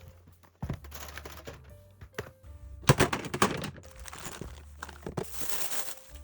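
Irregular knocks, clicks and rustling of household items being handled and set down, the loudest knock about three seconds in, with soft background music.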